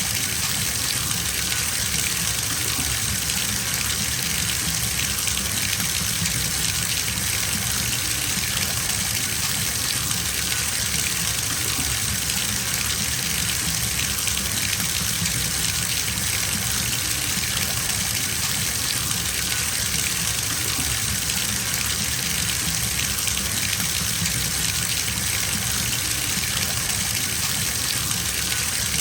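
Bathtub tap running full, water gushing steadily into the tub as it fills.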